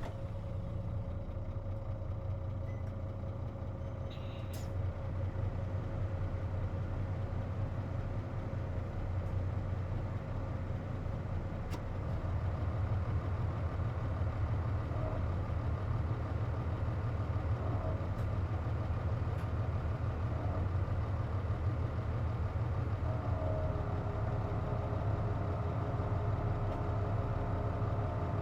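Diesel engine and drivetrain of a KC-JP250NTN city bus heard from inside the cabin as the bus pulls away and gathers speed. It sets in suddenly as a low drone that gets louder in two steps, with thin whining tones that grow near the end. The air conditioning is running, which the uploader says gives this bus its abnormal noise.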